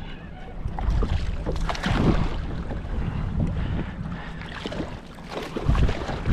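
Wind buffeting the microphone over water splashing around a kayak, with gusts about a second in, at two seconds and near the end, and scattered small knocks and clicks.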